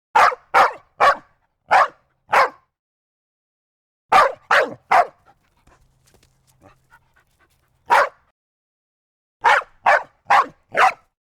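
A dog barking in short, separate barks: a quick run of five, then three, a single bark, and four more near the end.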